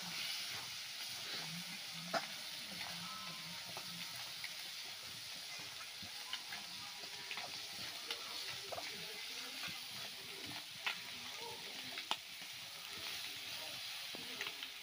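Potato wedges sizzling as they fry in oil in an iron kadai, stirred with a spatula that clicks and scrapes sharply against the pan several times.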